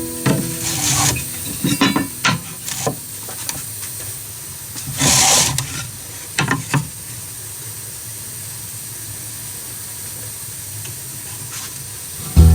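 Scattered knocks and clicks from handling building materials over a steady hiss of rain, with a louder hissing burst lasting about half a second, about five seconds in.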